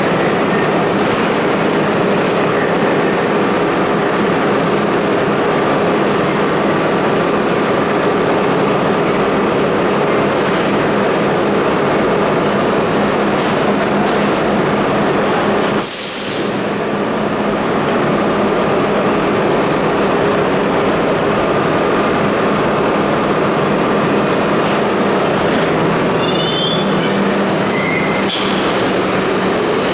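R32 subway train running on the tracks: steady wheel and motor noise, a short hiss about halfway through, and brief high wheel squeals near the end.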